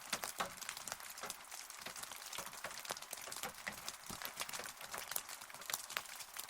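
Rain falling steadily, with individual drops tapping irregularly and sharply on a hard surface over a soft hiss.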